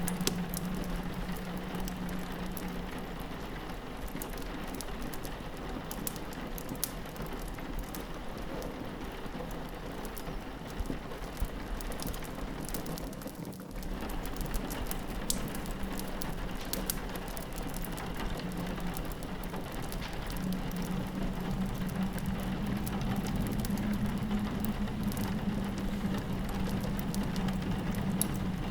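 Steady rain on a window mixed with a crackling fireplace: a constant hiss of rain under scattered sharp pops and snaps from the fire. A low steady drone sits beneath, stronger for the first few seconds and again from about two-thirds of the way in.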